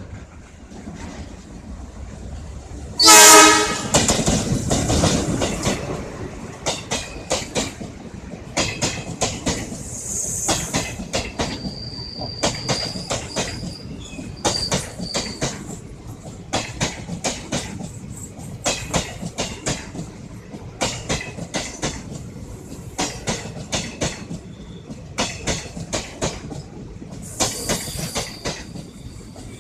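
Passenger express train arriving: the locomotive sounds one short, loud horn blast about three seconds in. The coaches then roll past with a steady clickety-clack of wheels over the rail joints and brief high-pitched wheel squeals.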